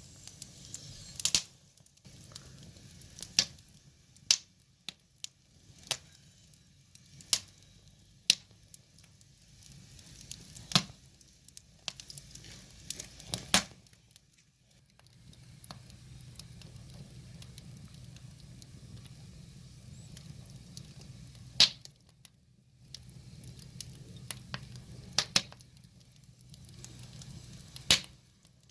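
Burning firewood crackling, with a dozen or so sharp pops at irregular intervals over a low, steady rush of flame.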